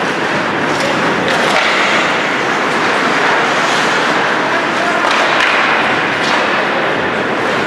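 Ice hockey play: skates scraping and hissing on the ice with a few sharp clacks of sticks or puck, and voices calling out.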